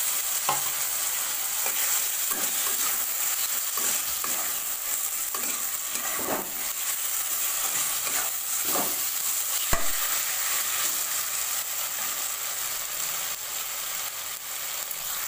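Bitter gourd slices sizzling steadily in mustard oil in a wok while a spatula stirs in kasundi mustard paste, scraping across the pan in irregular strokes. One sharp knock of the spatula a little under ten seconds in.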